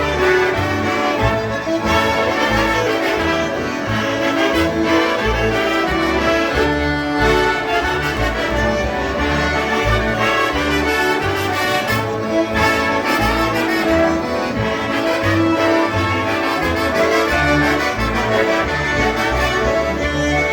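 Live polka music played on concertinas, with sustained reedy chords over a steady, regular bass beat.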